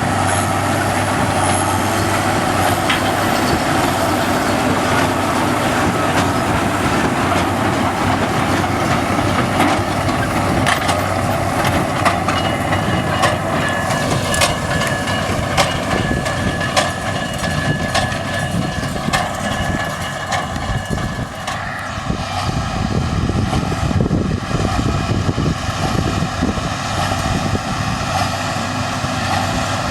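Heavy engine running steadily: a loud, even mechanical din with faint steady whining tones that change pitch about two-thirds of the way through.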